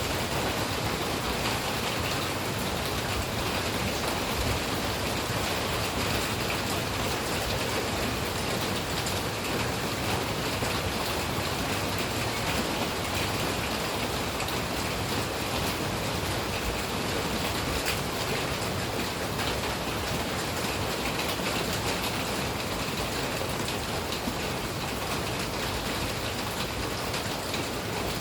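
Rain falling steadily, an even hiss that never breaks or changes.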